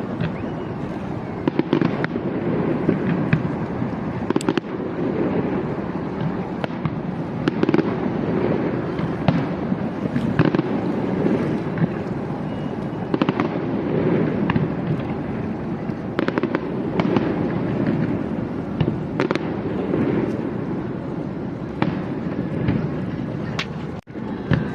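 Fireworks display going off continuously: a steady rumble of shell bursts with frequent sharp bangs and crackles, several a second at times.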